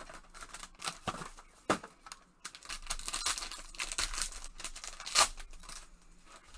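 Trading-card packaging being torn open and crinkled by hand: a few sharp snaps, then a longer stretch of crackling and tearing, with the loudest snap about five seconds in.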